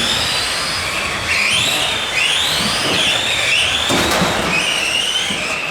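Electric motors and gears of several Tamiya Euro racing trucks whining, the pitch rising and falling over and over as they accelerate and brake around the track, over a hiss of tyres, with one sharp knock about four seconds in.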